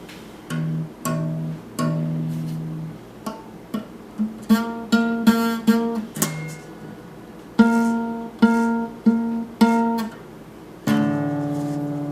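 Acoustic guitar picked note by note: a few held low notes, then two runs of quick repeated picks on a higher note, and a longer ringing note near the end.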